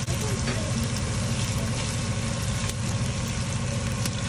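Diced onion and garlic sizzling in a non-stick wok, with a few light clicks of a wooden spoon stirring against the pan, over a steady low hum.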